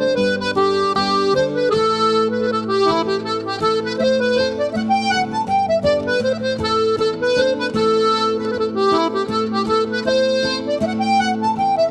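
Recorded music in an instrumental break: an accordion plays a melody of short rising phrases that repeat, over sustained chords.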